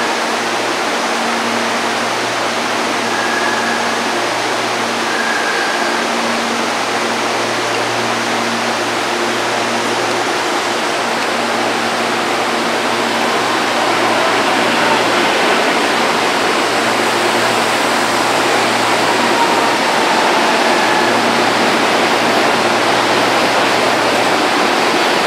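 Electric train at a station platform: a steady rushing noise of wheels and moving air, a little louder about halfway through. A low hum comes and goes, and in the second half a faint electric motor whine falls slowly in pitch.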